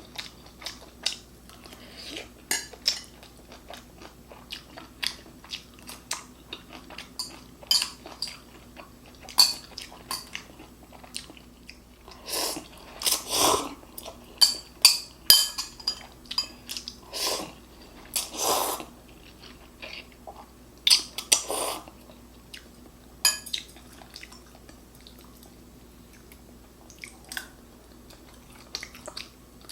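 Eating sounds: chewing and biting, with many short sharp clicks and utensils clinking on a bowl or dish. A cluster of longer, louder noisy bursts comes around the middle.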